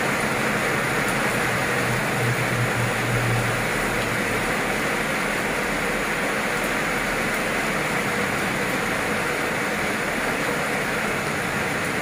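Heavy rain pouring down steadily onto pavement and standing water.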